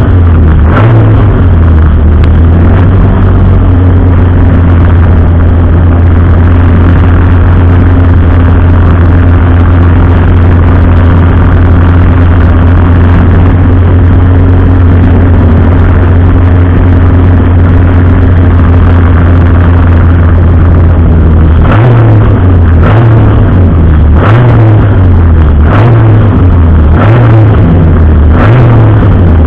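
Racing car engine, very loud, holding one steady speed for about twenty seconds, then revving up and dropping back again and again, about once a second, near the end.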